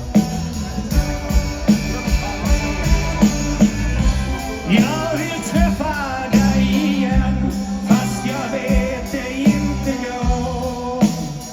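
Live rock band playing an instrumental passage: a steady drum beat with bass and guitar, and wavering lead lines in the middle.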